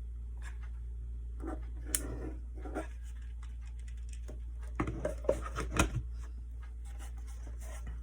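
Light handling of craft materials on a work surface: scattered small clicks, taps and scrapes, with two short busier spells, one around two seconds in and a louder one around five seconds in, over a steady low hum.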